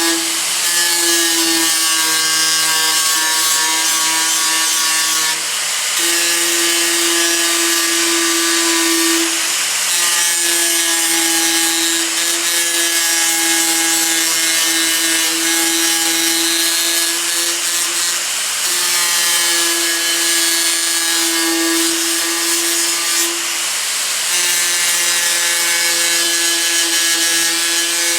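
Angle grinder running with a worn cutting disc cut to a point, grinding on sheet metal as a flap disc would. It is a steady motor whine that eases for a moment four times, when the disc is lifted off.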